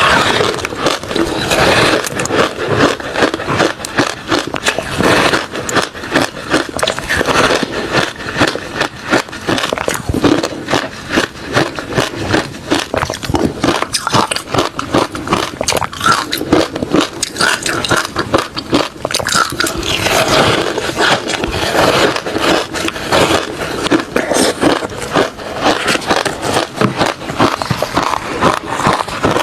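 A person chewing refrozen crushed ice mixed with shaved ice: dense, continuous crunching made up of rapid crackles.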